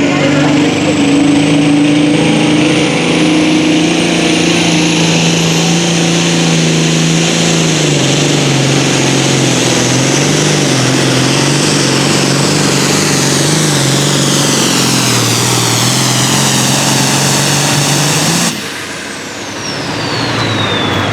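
Super Farm pulling tractor's turbocharged diesel running flat out under load, with a high turbo whine over the engine note; the revs sag and waver as it pulls down the track. Near the end the engine is shut off abruptly, and the turbo whine winds down in a long falling pitch.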